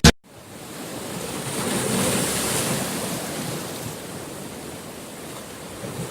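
Sea waves washing on the shore: a steady rushing noise that swells about two seconds in and slowly eases off.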